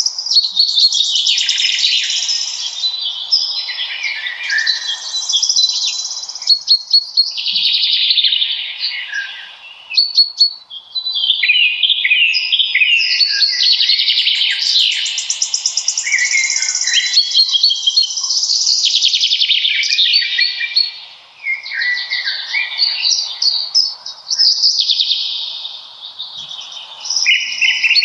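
A chorus of several songbirds singing at once in a spring birch forest, with rapid trills and repeated high chirps overlapping almost without pause. A faint steady hiss lies underneath.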